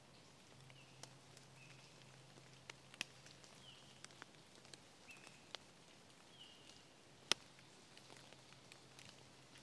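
Quiet wet woodland: scattered sharp ticks of water dripping, the loudest about three seconds and seven seconds in, with a few faint, short, high bird chirps between them.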